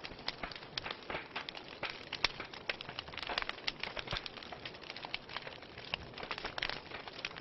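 Wood fire crackling in a fireplace: frequent irregular snaps and pops over a steady hiss.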